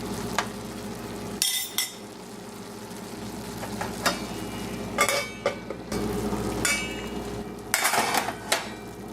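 Frozen garlic shrimp pasta cooking in a non-stick skillet over a steady low hum, while a utensil stirs and scrapes in the pan in four short bouts.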